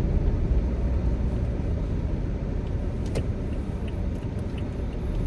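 Steady low rumble of a car running, heard from inside the cabin, with a light click about three seconds in. The car has a blinking check engine light and has been shaking and losing power.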